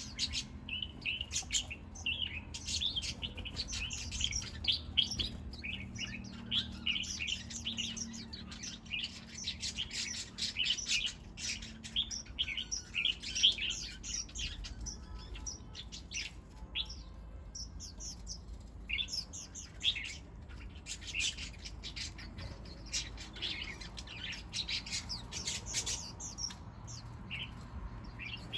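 Small birds chirping and twittering: many short, high chirps in quick succession, overlapping and continuing with only brief lulls, over a faint steady low hum.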